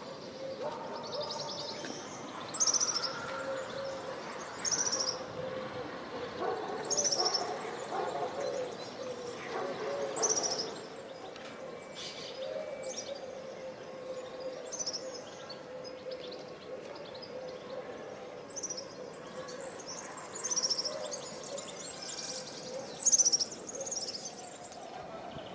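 A small songbird giving short, high calls over and over, one every couple of seconds, with a steady low hum underneath.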